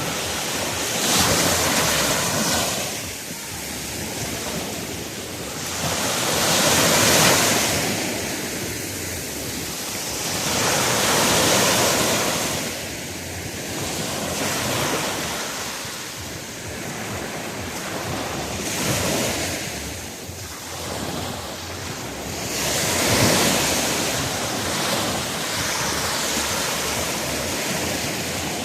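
Ocean surf breaking on a beach, the wash of the waves surging and fading every few seconds, with wind buffeting the microphone.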